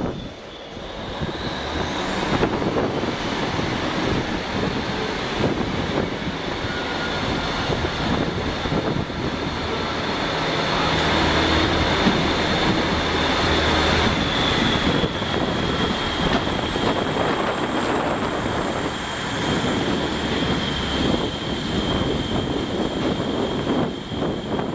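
A train running past on the rails: a steady rumble of wheels on track with a high whine that drops slightly in pitch in the second half. The sound is loudest around the middle.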